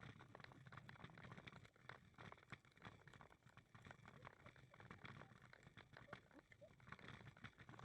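Faint footsteps on a walking path: light, irregular clicks at near-silent level.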